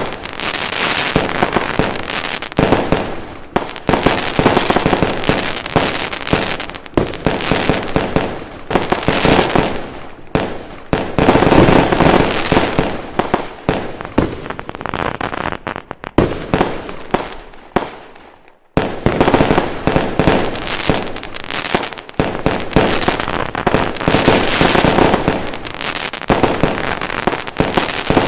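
Fireworks going off in a dense, continuous barrage of bangs and crackling firecrackers, with a brief lull about two-thirds of the way through before the barrage resumes.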